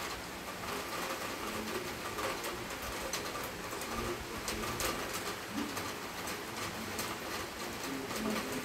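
Heavy rain falling steadily, with many sharp taps of drops hitting close by. Low cooing calls of a pigeon come a few times in the second half.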